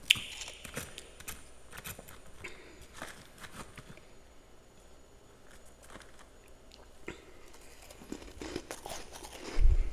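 Freezer frost being bitten and chewed close to the microphone: a run of crisp, irregular crunches, sparser in the middle, with a louder thump near the end.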